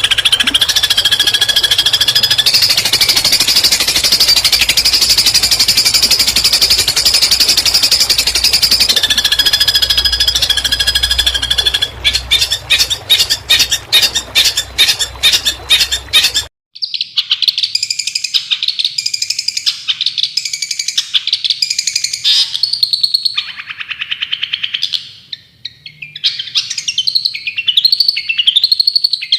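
Recorded songbird song of the rapid 'tembakan' kind used as masteran for long-tailed shrikes. First a dense, machine-gun-like buzzing trill over steady high whistle notes, breaking up into rapid clicks about four a second. After a sudden cut about two-thirds of the way in, it changes to a clearer run of varied chirps and whistles.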